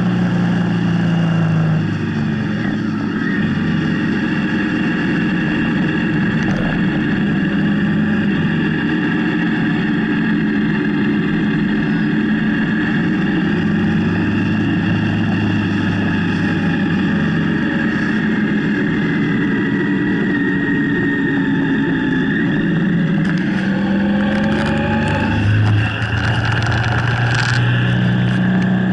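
Motorcycle engine running under way, steady and loud. Its pitch steps down about two seconds in, then climbs again near the end, with a brief dip in level just before the rise.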